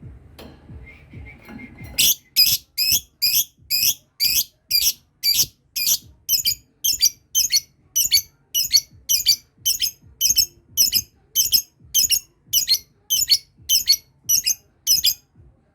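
Lovebird ngekek: a long run of shrill, evenly spaced chattering calls, about two a second, starting about two seconds in and lasting some thirteen seconds.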